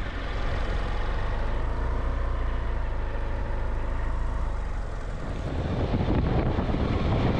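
A vehicle travelling on a road: a steady low rumble of engine and road noise, with a faint whine that rises and falls gently through the middle.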